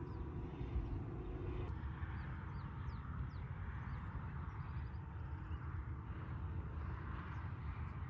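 Outdoor desert ambience: a steady low rumble of wind on the microphone, with small birds giving short chirps and a brief rapid trill.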